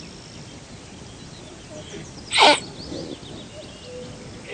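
Chamois giving one short, sharp snort about two and a half seconds in, over a steady faint outdoor background.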